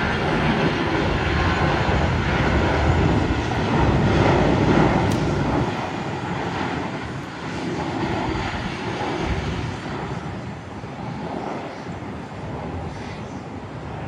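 Airliner's engines as it passes, a steady wash of engine noise that swells to its loudest a few seconds in and then slowly fades away.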